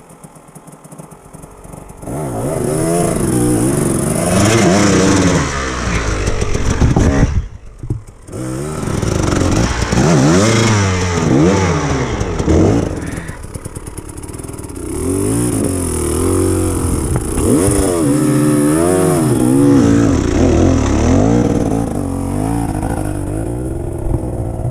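Enduro dirt bike engine revving hard, its pitch rising and falling again and again as it is worked up a muddy climb. It starts loud about two seconds in and briefly drops away about eight seconds in before revving again.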